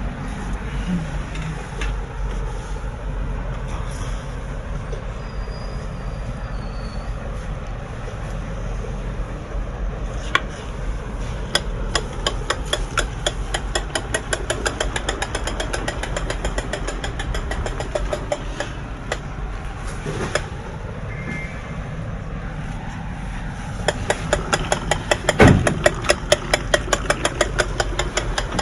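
Toy tractor's friction-driven sound mechanism clicking rapidly and evenly, like a small engine knocking, over a steady low rumble; the clicking runs in two spells, the second, near the end, louder.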